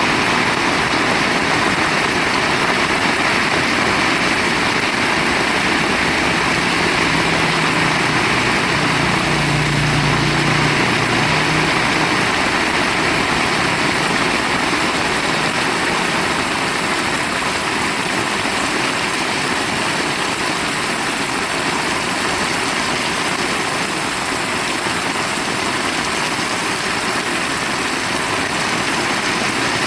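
Heavy rain pouring steadily. A low hum rises under it for a few seconds, about seven to twelve seconds in.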